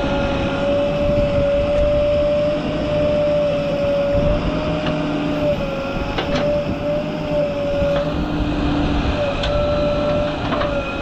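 JCB backhoe loader's diesel engine running under load, with a steady high whine that wavers slightly and a few sharp metallic clicks or knocks.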